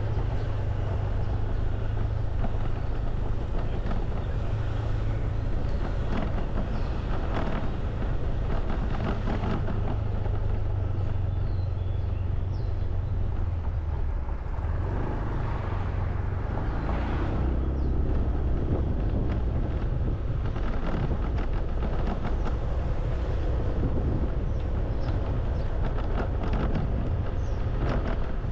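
Steady vehicle engine noise with a low hum, passing traffic and wind on the microphone.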